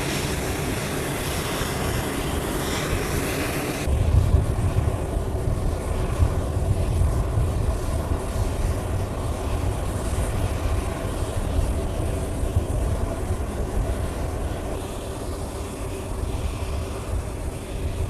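Jet aircraft engines running steadily with a rushing hiss. About four seconds in the sound changes abruptly: the hiss drops away and a deeper, louder rumble takes over.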